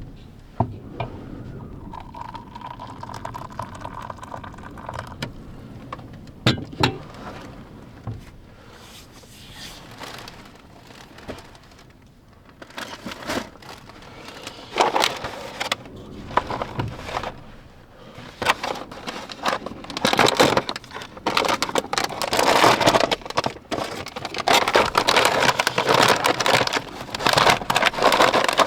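Things being handled at close range: scattered clicks and knocks, then dense crinkly rustling through the second half.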